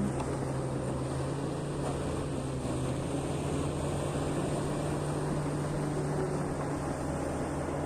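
Heavy diesel earthmoving machine running steadily, a constant low engine drone with no change in pitch.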